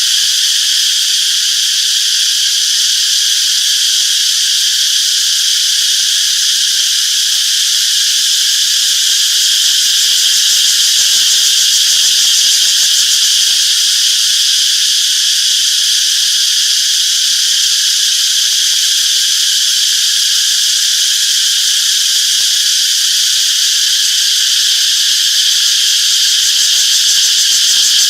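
Cicadas chorusing: a dense, steady, high-pitched buzz that holds at an even level without pause.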